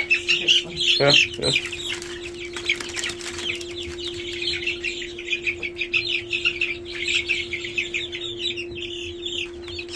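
A flock of young chicks peeping, many short high cheeps overlapping without a break. A steady low hum runs underneath, and a couple of thumps come about a second in.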